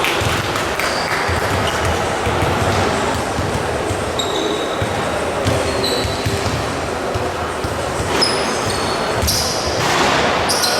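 Basketball game in a large indoor hall: sneakers squeak again and again on the court, with thuds of the ball over a steady crowd hum.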